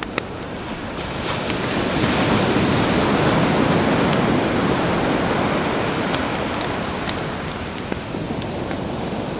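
Sea waves washing in, one wave swelling about two seconds in and slowly easing off, with a campfire crackling in scattered small pops.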